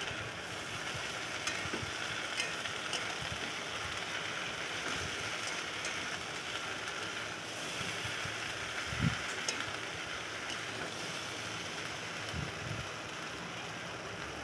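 Okra with mustard paste and spices sizzling steadily in hot mustard oil in a karahi while being sautéed, with occasional clicks and knocks of a metal spatula stirring against the pan.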